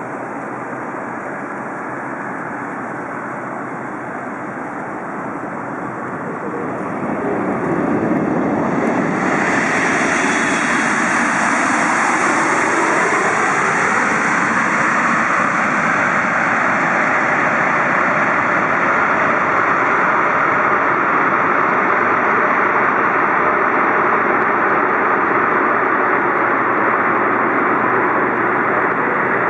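Boeing 777-300ER's GE90 turbofan jet engines on a landing pass, swelling loud about eight seconds in and then holding a steady loud rush. A faint falling tone runs under it for a few seconds as the jet goes by.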